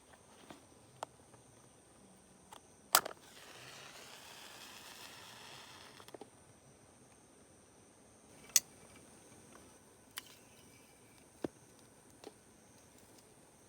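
Wood fire crackling: scattered sharp pops and snaps, the loudest about 3 s in and again about 8.5 s in, with a soft hiss lasting a few seconds after the first big pop.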